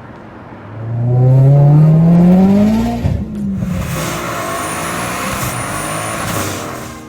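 Car engine accelerating hard, its note rising steadily for about two seconds, then a loud rush of noise with a thin high whine that fades near the end.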